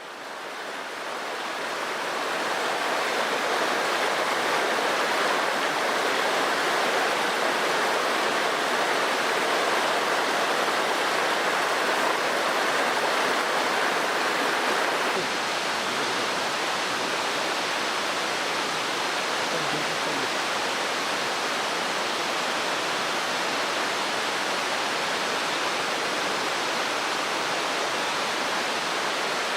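Mountain stream water rushing steadily, a dense even wash. It fades in over the first couple of seconds and dips slightly in level about halfway through.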